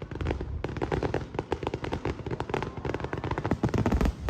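Fireworks crackling overhead: a dense, rapid run of sharp pops, with a deeper boom near the end.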